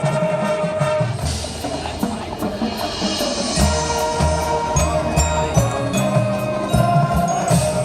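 High school marching band playing its field show: sustained band tones over frequent drum strokes, with short high bell-like mallet percussion notes in the second half.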